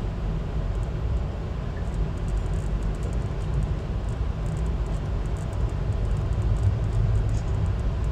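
Steady low rumble of a VIA Rail passenger train in motion, heard from on board, with faint light ticks over it.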